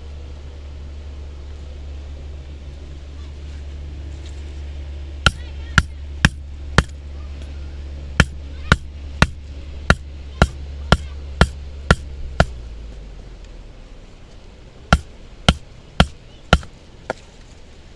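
Wooden baton striking the spine of a Mora knife driven into a log, about two blows a second in three runs, four, then nine, then five, as the blade fails to split the wood through a knot. A steady low rumble sits underneath and fades about two-thirds through.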